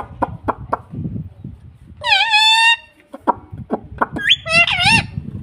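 A pet rose-ringed (ringneck) parakeet giving two loud calls: a long, harsh, wavering one about two seconds in, then a shorter call with a bending pitch about four seconds in. A few sharp clicks come before them.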